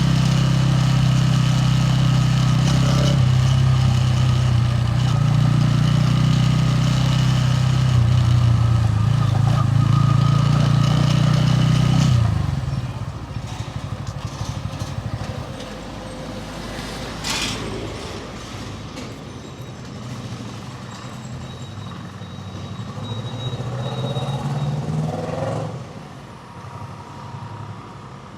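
Bajaj Pulsar N160's single-cylinder engine running steadily at an even pitch, then stopping suddenly about twelve seconds in, leaving fainter street traffic noise.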